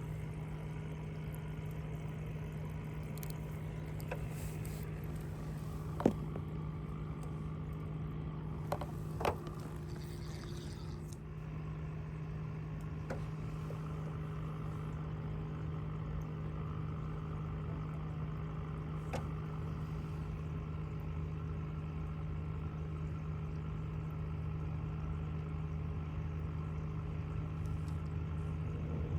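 Boat motor running steadily at one pitch, with a few short knocks, including a sharp one about six seconds in and a pair about three seconds later.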